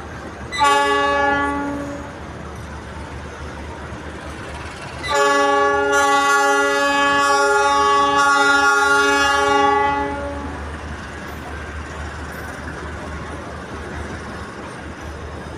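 Locomotive air horn sounding twice: a short blast about half a second in, then a long blast of about five seconds starting about five seconds in. A steady low rumble of the train runs underneath.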